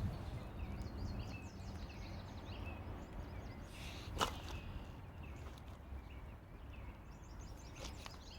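Small birds chirping over a low steady background rumble, with one sharp click or knock a little after halfway.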